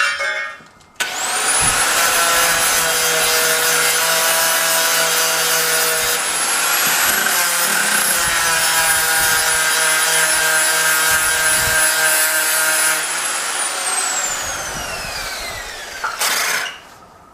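Angle grinder spinning up with a rising whine about a second in, then grinding steel for about twelve seconds to take paint off and clean the metal for welding. It spins down with a falling whine near the end.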